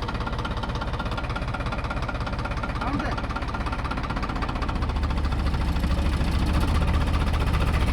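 Tractor diesel engine running with a rhythmic knocking beat, throttled up about halfway through so it grows louder and heavier.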